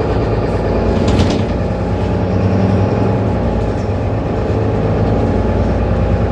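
Mercedes-Benz Citaro C2 city bus engine running steadily while the bus is under way between stops, heard on board. A brief high clatter about a second in.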